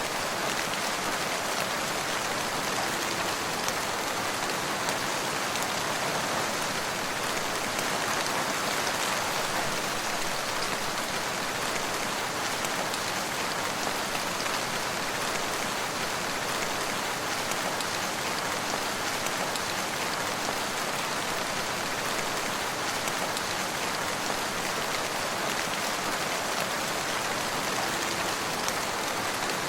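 Steady rain falling, a dense even patter of raindrops on surfaces without breaks or single standout sounds.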